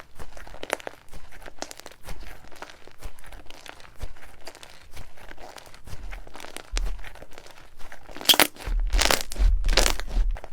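Slime being squeezed and pressed by hand, giving a run of small crackles and pops, with three louder crunching squishes near the end.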